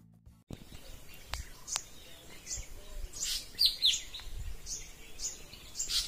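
Wild birds chirping and calling, with repeated short, high notes and quick falling whistles, over a faint outdoor background. It starts about half a second in, as background music ends.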